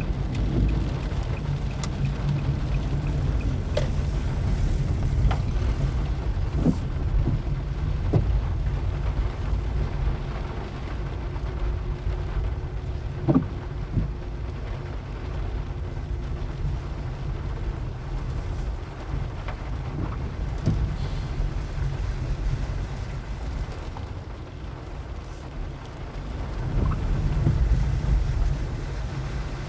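A car driving slowly in the rain: a steady low rumble of engine and tyres, with scattered short knocks and taps from rain and from the car jolting over the rough street.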